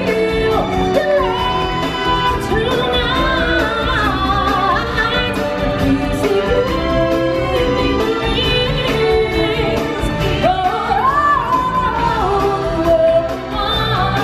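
Stage-show singing with instrumental backing: long, wavering sung lines without clear words over a full music track.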